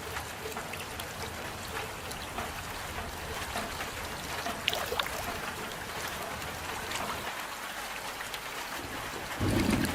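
Steady rain falling: an even hiss with scattered sharper drop hits. Near the end a louder, deeper rushing sound comes in.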